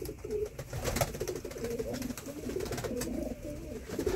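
Several domestic pigeons cooing together, with low, warbling coos overlapping without a break, and a few sharp clicks among them.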